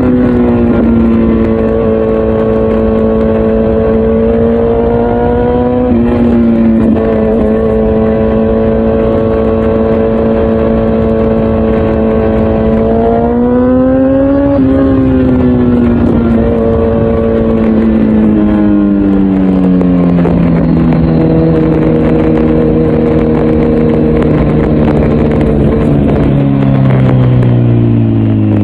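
Kawasaki Z900's inline-four engine, breathing through an Akrapovic full exhaust system, running loud while riding. The engine holds a steady pitch, rises twice with the throttle, and then winds down steadily through the second half as the bike slows.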